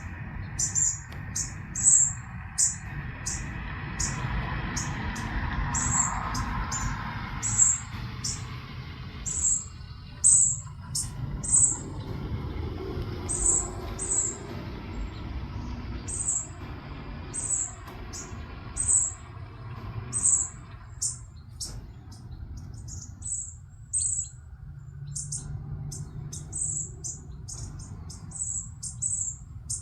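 A small bird chirping over and over in short, high-pitched notes, about one or two a second, over a low background rumble.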